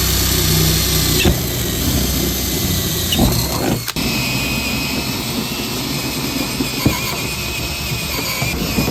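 Power drill boring a bolt hole through metal, the motor running steadily with a high squeal from the bit cutting; it pauses briefly about four seconds in, then carries on.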